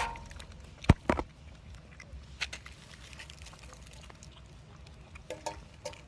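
Two sharp knocks about a second in, then small scattered ticks and a few brief, faint puppy squeaks near the end.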